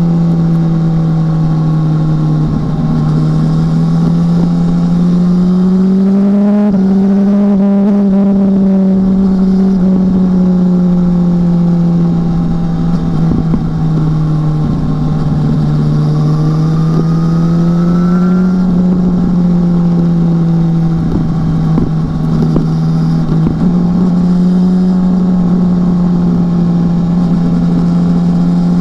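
BMW S1000R motorcycle's inline-four engine running under way at steady mid revs. Its pitch rises and falls gently, with a few brief breaks and resets around a few seconds in and again past twenty seconds. Wind rumble sits underneath.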